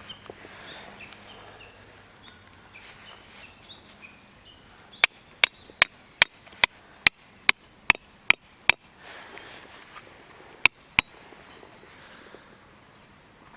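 A run of about ten sharp knocks, evenly spaced at roughly two and a half a second, followed a little later by two more, with birds chirping now and then.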